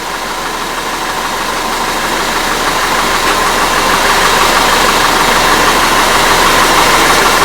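2015 Audi Q5 engine running at idle with fresh spark plugs, growing gradually louder; the scan tool shows no cylinder misfires while it runs.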